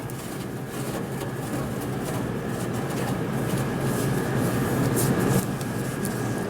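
Steady machine hum made of a few low tones and a faint high whine, with a noisy haze that swells toward the middle and eases off near the end.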